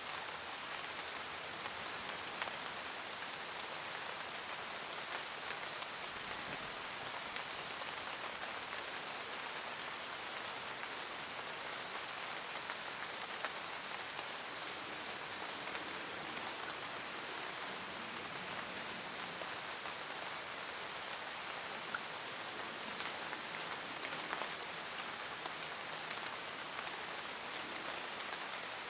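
Steady rain falling in a forest, a dense patter of raindrops striking leaves and ground with scattered louder individual drops.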